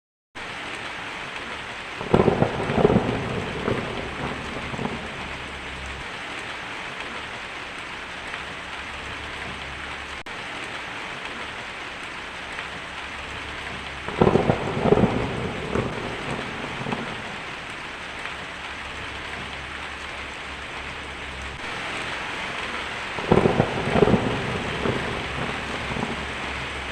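Steady heavy rain with three claps of thunder, each rumbling for about three seconds: one a couple of seconds in, one mid-way and one near the end. The thunder is louder than the rain.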